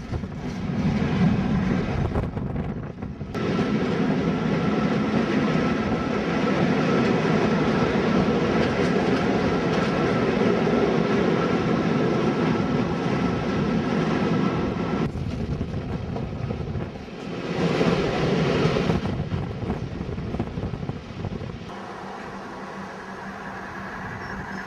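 Diesel-hauled passenger train running along the line, heard from an open coach window: steady wheel and wind noise with a faint steady whine. The noise dips briefly twice and turns quieter near the end, leaving a steady low hum.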